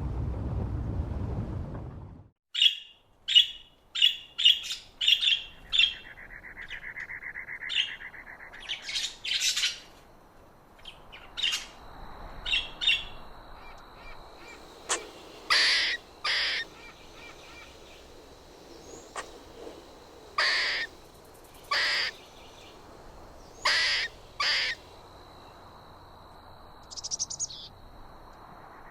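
Bird calls: after about two seconds of wind-like rumble, a run of short, loud, high calls comes in quick succession, then thins out to single calls every second or two. A faint steady high whistle and a brief buzzy trill run behind them.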